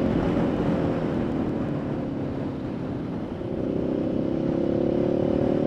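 Ducati Scrambler's 800cc V-twin engine under way with wind noise. Its note falls as the throttle eases over the first two or three seconds, then rises again from about three and a half seconds in as it picks up speed.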